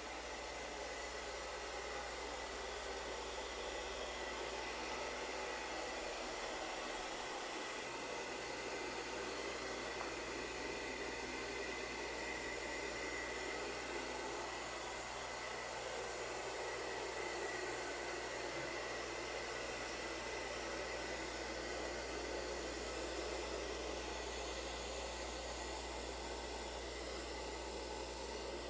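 ILIFE V5s Max robot vacuum running while cleaning: a steady whirring motor and suction noise with a thin high whine.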